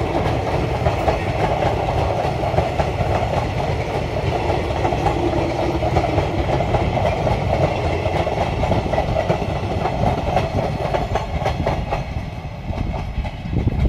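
Passenger express coaches rolling past, their steel wheels clattering steadily on the rails; the sound eases off near the end as the last coach goes by.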